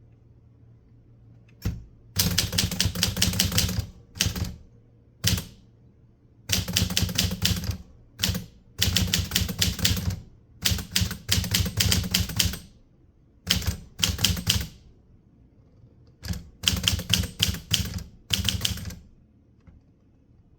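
Typewriter being typed on in quick runs of key strikes broken by short pauses. The typing starts about two seconds in and stops shortly before the end.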